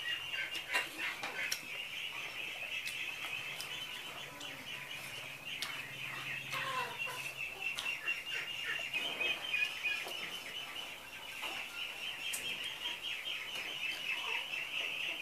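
Close-up chewing and lip-smacking on chicken, many short wet clicks, over a steady high-pitched chirring in the background.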